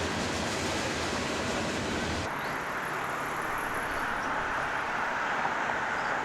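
Train rolling along the rails with a low rumble, cut off abruptly about two seconds in and replaced by a steadier, lighter outdoor background noise.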